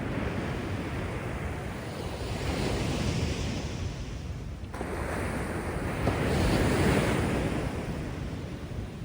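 Heavy surf from a rough, storm-churned sea: waves breaking and washing up the beach, swelling twice, the louder one about six to seven seconds in, then easing off. A low rumble of wind on the microphone runs under it.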